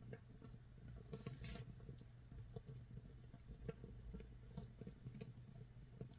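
Makgeolli starter (mitsul) fermenting in an earthenware jar: carbon-dioxide bubbles popping at the surface in an irregular crackle of small clicks and pops, like light rain or wood burning.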